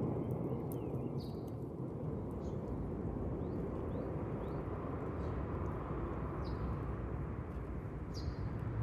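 Steady low outdoor rumble with a small bird chirping in short, high notes about six times.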